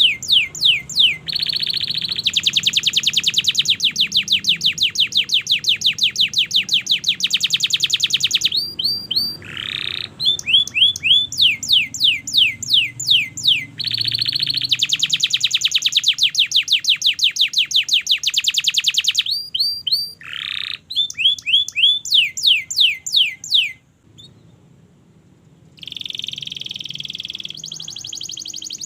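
Domestic canary singing a long, loud song. Rapid even trills lasting several seconds alternate with runs of fast descending sweeping notes, with a pause of about two seconds near the end.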